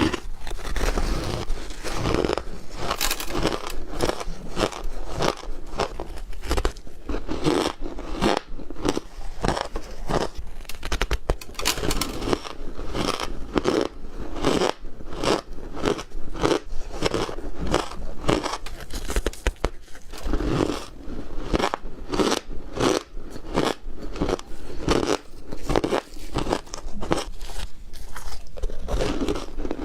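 Close-up eating sounds: a person biting and chewing ice, a rapid, irregular run of crunches and crackles.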